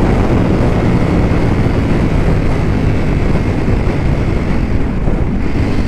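Ducati V4 motorcycle engine running steadily under way, with wind rushing over the microphone.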